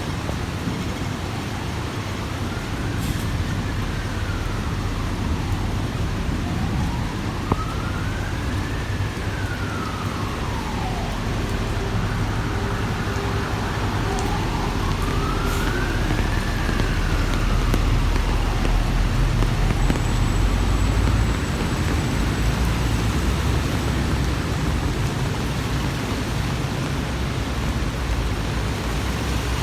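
Emergency vehicle siren wailing, rising and falling slowly in pitch about once every five seconds for three cycles, then fading out. It sounds over a steady hiss of rain and the low rumble of road traffic.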